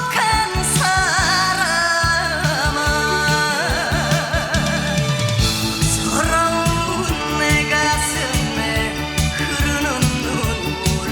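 Music: a Korean trot song, a solo voice singing long held notes with vibrato over instrumental backing.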